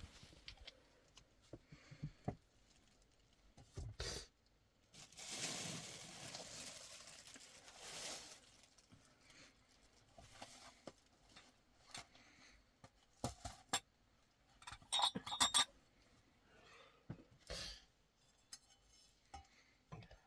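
Scattered knocks and clinks of household objects being handled, with a few seconds of rustling noise about five seconds in and a quick cluster of ringing clinks about fifteen seconds in.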